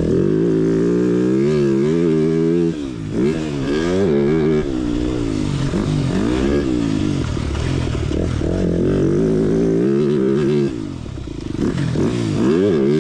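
TM 300 Fi dirt bike engine being ridden hard, its pitch rising and falling over and over as the throttle is rolled on and off. The throttle is briefly shut twice, about three seconds in and near the end.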